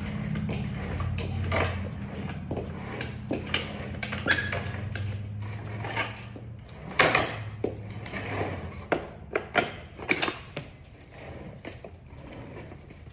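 Irregular knocks and clatter of tools and objects being handled and set down, over a low steady hum that fades out about two-thirds of the way through.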